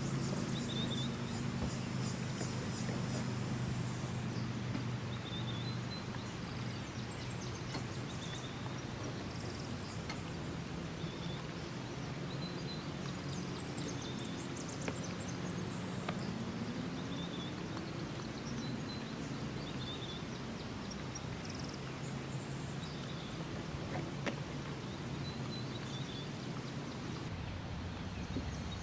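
Outdoor ambience: a steady background hiss with a low steady hum, and a bird giving a short high chirp every second or two.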